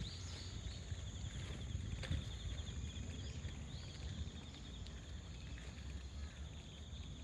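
Insects trilling: a fast, even pulsing trill over a steady high whine, against a low outdoor rumble, with a sharp click about two seconds in.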